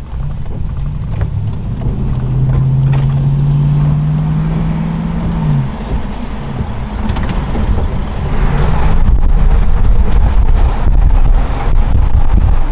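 Strong storm wind buffeting the microphone, getting louder about eight seconds in. A steady low hum runs under it for the first five seconds or so.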